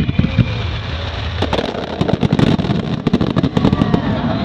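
Fireworks going off in a rapid volley of sharp bangs and crackles, densest from about a second and a half in until near the end, over a steady low rumble.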